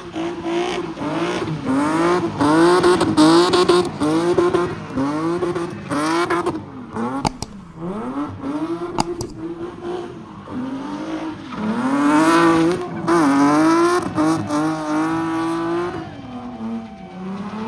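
Car engine being revved hard over and over, its pitch rising and falling about once a second, as a car spins in a car pit. A few sharp pops sound about halfway through.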